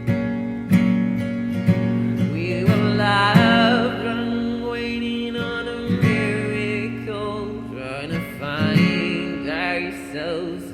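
Acoustic guitar strummed about once a second, with a voice singing long wavering notes over it through the middle and near the end: a song cover.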